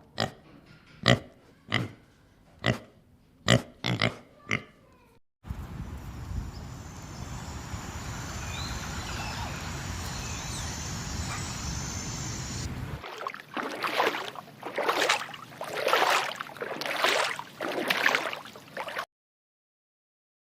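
A string of separate animal clips: about eight short, sharp calls in the first five seconds, then a steady hiss with faint high chirps, then a run of about six longer pitched animal calls in quick succession.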